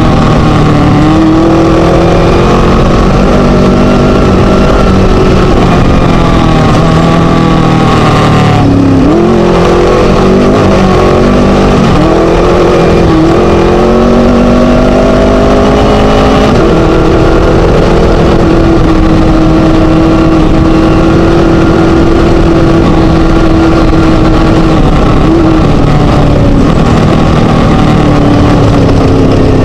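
Class 1 desert race buggy's Scat engine running hard under load, loud over a haze of wind and rattle noise. Its pitch drops sharply about eight seconds in, rises and falls unevenly for several seconds, then holds steady and high from about halfway.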